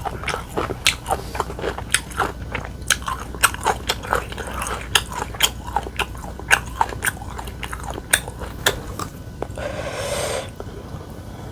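Close-up chewing of food with sharp, wet mouth clicks at about two to three a second, then a short breathy rush of noise near the end.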